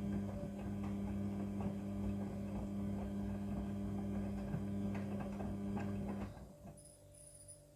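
Front-loading washing machine running with a steady electric hum and light clicks and knocks from the drum, then the motor cuts off about six seconds in, leaving a faint hum.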